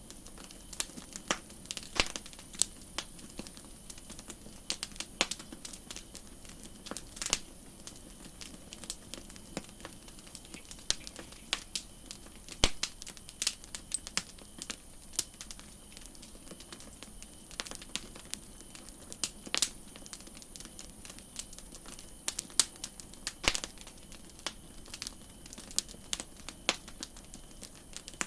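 Wood campfire crackling: irregular sharp pops and snaps of varying loudness over a steady high hiss, which drops a little about eleven seconds in.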